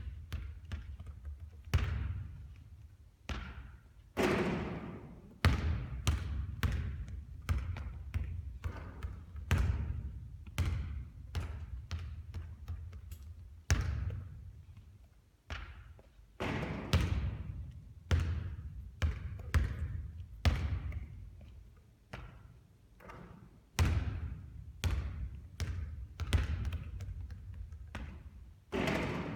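Basketball bouncing on a court during repeated three-point shooting, a sharp thud every second or so, over and over.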